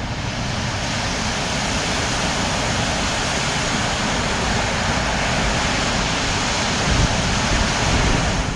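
Steady rushing wind noise on the microphone of a moving bicycle.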